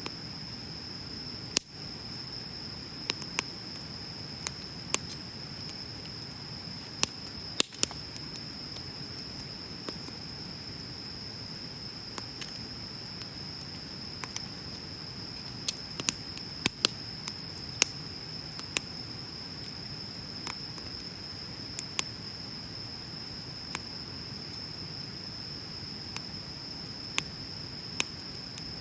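Wood bonfire crackling: sharp, irregular pops and snaps over a soft, steady hiss of burning. A steady high-pitched tone runs underneath throughout.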